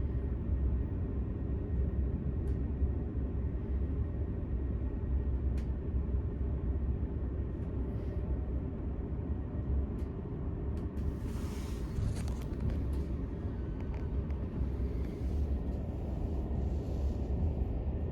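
Steady low rumble of a VR Intercity train running on the track, heard inside the passenger car. There are a few faint clicks, and a short stretch of hiss comes about eleven seconds in.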